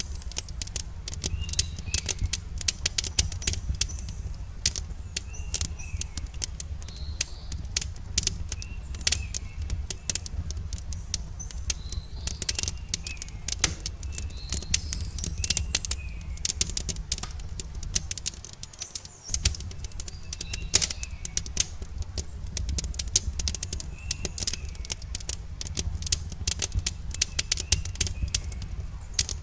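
Campfire crackling with dense, irregular pops and snaps over a steady low rumble of the burning wood. Short bird chirps recur every couple of seconds.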